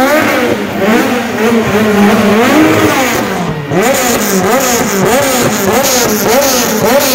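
Car engine revved hard over and over, its pitch climbing and dropping in quick swells that speed up to about two a second in the second half.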